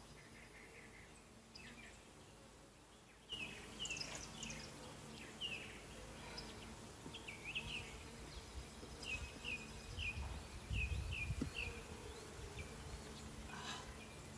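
Honeybees buzzing around an open hive: a faint, steady hum. Short falling chirps, from a bird, repeat from about three seconds in, and a brief low rumble comes about two-thirds of the way through.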